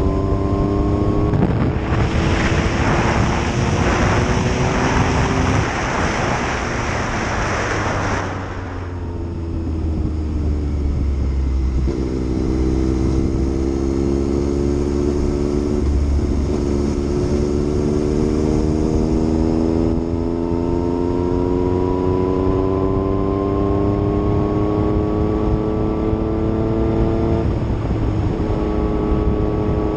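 Yamaha MT-09's inline three-cylinder engine on the move, its pitch climbing under throttle and dropping back at several gear changes, easing off to slow about nine seconds in before pulling again. A loud rushing noise rides over it for the first eight seconds or so.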